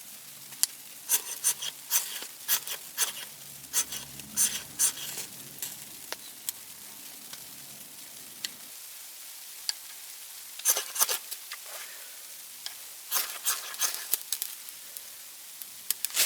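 Small wood fire crackling, with irregular clusters of sharp pops and snaps.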